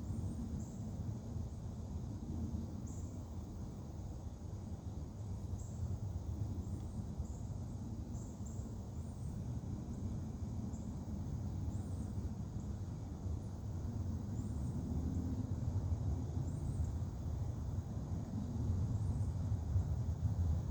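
Outdoor ambience on a wooded walkway: a steady low rumble, with short, very high-pitched chirps repeating every second or two.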